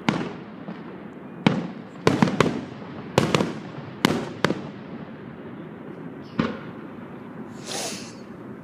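Aerial fireworks bursting: about ten sharp bangs with echoing tails, several coming in quick succession in the first half, then a lone bang and a short hiss near the end.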